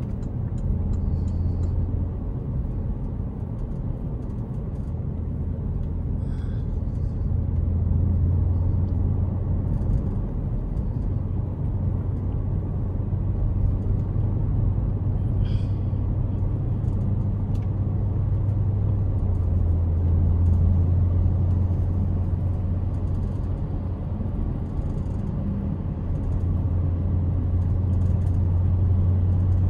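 Porsche Cayenne Turbo's twin-turbo V8 with factory sports exhaust cruising, heard from inside the cabin: a steady low drone over road and tyre noise, its pitch stepping a few times as the speed changes.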